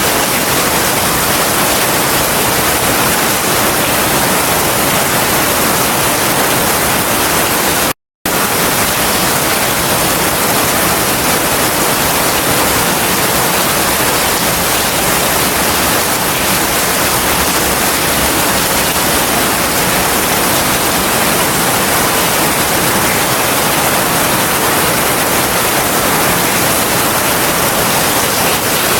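Heavy rain falling as a steady, dense hiss with no thunder; it cuts out to silence for a fraction of a second about eight seconds in, like a splice in the loop.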